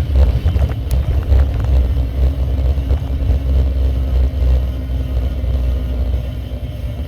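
Heavy low rumble and rattling picked up by a bike-mounted camera riding over a rough road, with a few sharp clicks. The rattle comes from the vibrating handlebar armrests or the DJI camera mount; the rider is not sure which.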